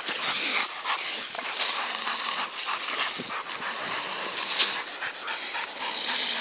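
Shepherd dogs worrying at a boar: dog sounds with continuous scuffling and many irregular sharp snaps and rustles.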